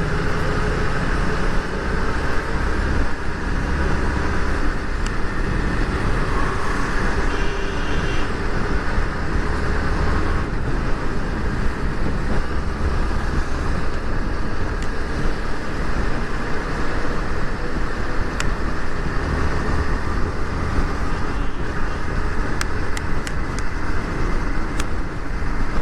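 Motorcycle riding along a road: a steady, unbroken mix of engine and road noise on the rider's microphone.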